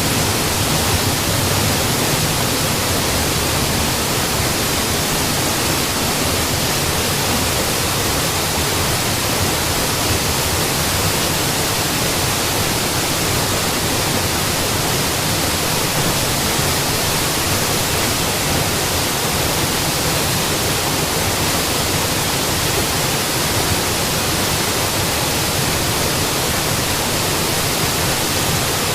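Mountain waterfall: water falling and splashing in a steady, unbroken rush.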